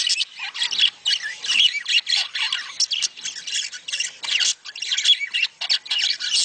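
A flock of budgerigars chattering and warbling in a dense, unbroken stream of short squawks and chirps. This is the breeding-season flock chatter played to stir budgies to mate.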